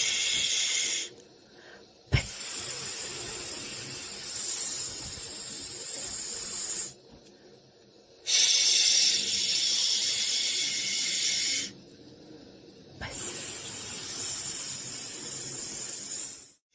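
Loud, high-pitched hissing white noise that comes in blocks of about four to five seconds and stops briefly three times. Two of the blocks restart with a faint click.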